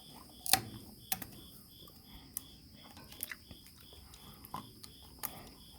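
A few sharp, irregular clicks and light taps of metal parts and old manifold gaskets being handled on a tractor engine, over a steady insect chirp pulsing about three times a second.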